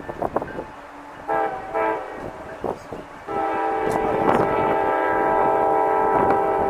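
Freight locomotive's multi-chime air horn, from the lead GE ES44AH of a CSX train: a short blast about a second in, then a long blast from about halfway that is still sounding at the end.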